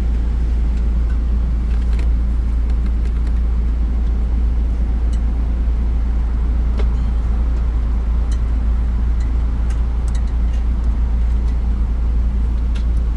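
Steady low rumble, with scattered light clicks and knocks as a car's rear seat is fitted back into place.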